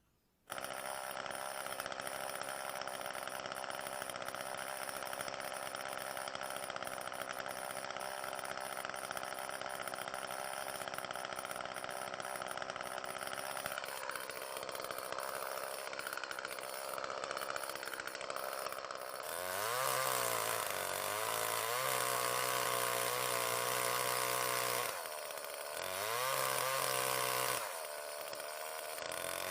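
Echo CS-361WES two-stroke chainsaw ripping a log lengthwise. It starts suddenly about half a second in and runs steadily, then in the last third it gets louder and its pitch swings up and down several times as it works through the cut.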